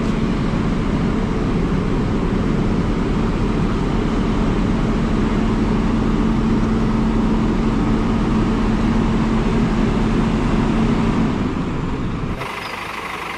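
Scania multi-axle bus's diesel engine running steadily with a constant hum while the bus stands, its engine overheating with coolant temperature extremely high. About twelve seconds in the sound cuts abruptly to a quieter engine sound.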